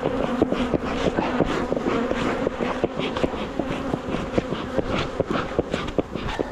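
Honeybees buzzing in a steady, loud hum around the opened hive, with many short ticks and knocks mixed in. The colony is defensive, striking and stinging the beekeepers.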